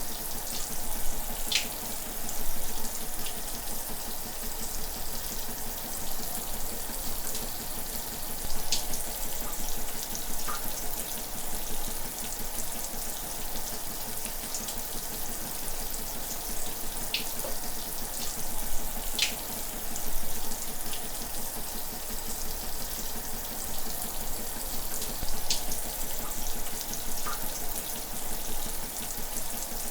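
Shower running: a steady spray of water hissing, with a few brief sharper splashes now and then.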